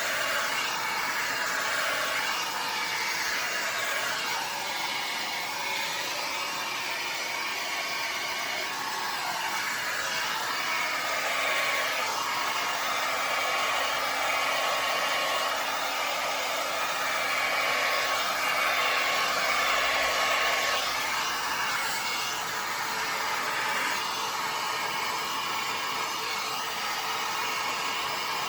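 Handheld hair dryer blowing on its cool setting, a steady whooshing motor and fan that swells a little in the middle as it is moved over the wet paint.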